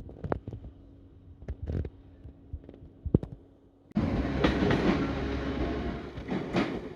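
Train running on the rails: a few sharp clacks for the first few seconds, then a sudden loud rushing noise from about four seconds in that lasts nearly three seconds before dropping away.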